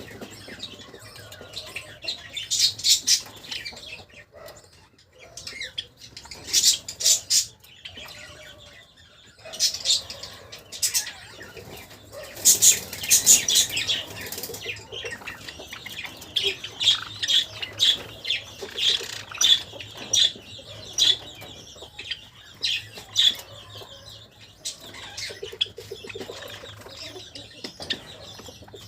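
Java sparrows chirping in repeated clusters of short, high chips every few seconds, with wing fluttering and softer chatter in between.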